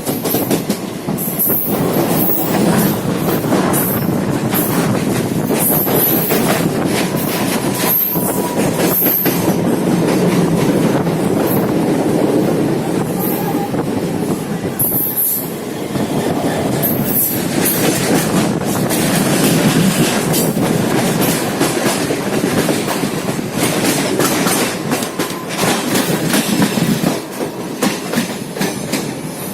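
A train rolling past close by: a steady rumble of wheels on track, with many rail-joint clicks and short high-pitched wheel squeals, the squeals mostly in the first half.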